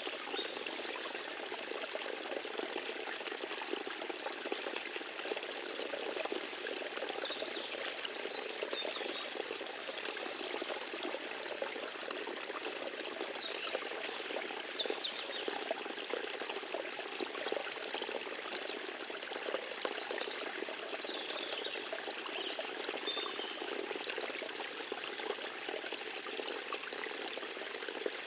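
A small forest stream trickling and babbling steadily over stones, an even, unbroken water sound.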